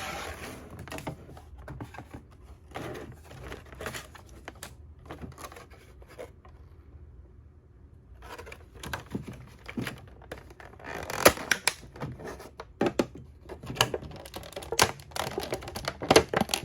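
Toy box and plastic packaging being handled and opened: scattered clicks, scrapes and crinkles, with a short pause in the middle and sharper clicks near the end.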